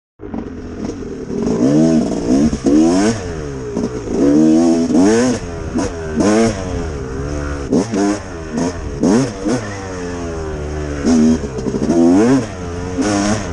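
Yamaha YZ250X two-stroke single-cylinder dirt bike engine being ridden, revving up and falling back again and again as the throttle is worked, with brief sharp bursts on the throttle.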